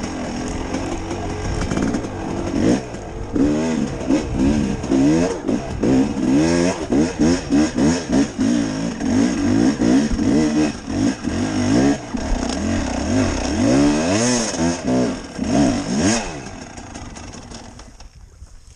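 Off-road motorcycle engine revving hard over and over, its pitch swooping up and down as the throttle is worked on a hill climb. The engine fades away near the end.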